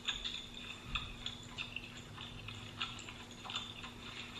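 Close-miked eating sounds: irregular crisp clicks and crunches of chewing battered fried shrimp, with a faint steady hum underneath.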